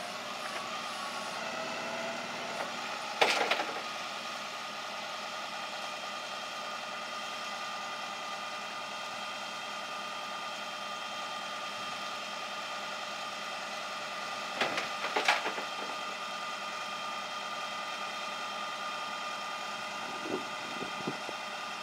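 Steady running hum of a truck on the move, with a sharp knock about three seconds in and a few more knocks around fifteen seconds in.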